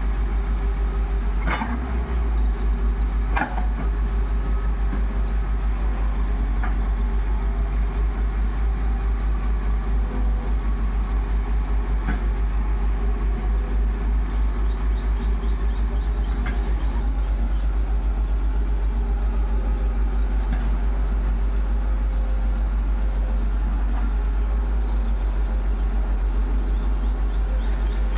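Diesel engine of heavy earth-moving machinery (backhoe loader or tractor) running steadily close by, a low, fast-pulsing rumble. A few short knocks come through it, twice within the first few seconds and then now and again.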